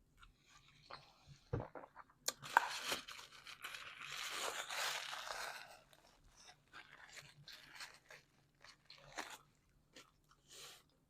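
Close-up mukbang eating of a homemade calzone: biting and chewing with crunching and wet mouth sounds, loudest as a long crunchy stretch from about two to six seconds in, then scattered smaller crackles.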